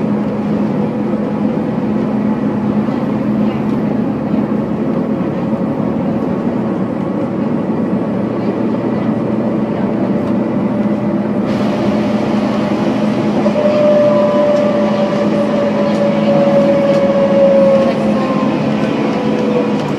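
Volvo B7TL double-decker bus on the move, heard from on board: steady running noise with a whine from the differential, which is the odd sound in question. The whine grows louder about two-thirds of the way through, then falls slightly in pitch toward the end.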